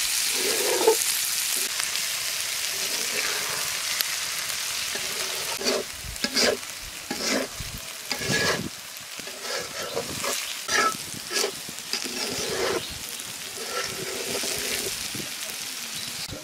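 Chopped okra and onion frying in oil in a karahi, a steady sizzle, while a metal spatula stirs and scrapes against the pan. From about halfway the sizzle drops and the spatula's scraping strokes stand out, roughly one a second.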